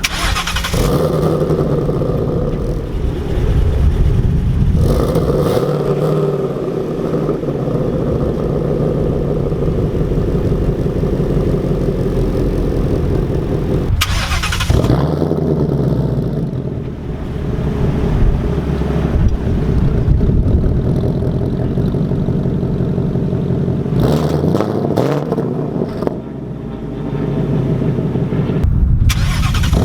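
2019 Mustang GT's 5.0 V8 with factory active exhaust, resonator delete and H-pipe, started several times in a row and revved to about 2,000 to 3,000 rpm, idling between. The exhaust valves are set to a different mode each time: quiet, normal, sport and track.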